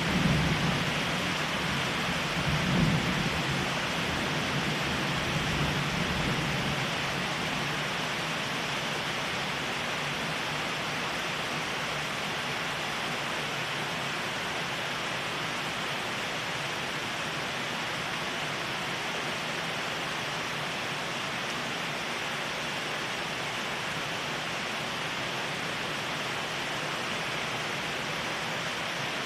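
Steady heavy rain. A low rumble of thunder peaks about three seconds in and dies away within the first several seconds.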